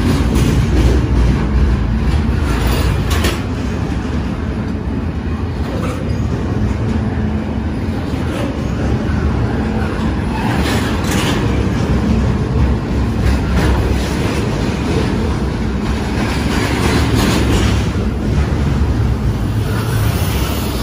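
BNSF double-stack intermodal freight train passing close at speed: a steady, loud rumble of steel wheels on the rails, with scattered clacks as the wheels run over the track.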